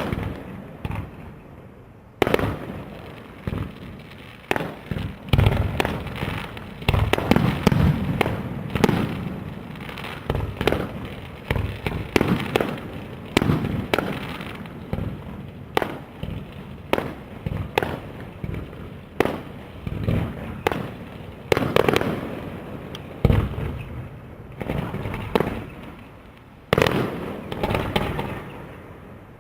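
Aerial fireworks display: a rapid, near-continuous string of shell bursts and bangs, each fading off quickly. A short lull comes in the first two seconds before the bursts pick up again.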